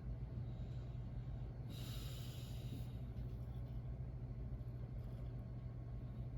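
A person's breath: one short, hissy exhale about two seconds in, over a steady low hum.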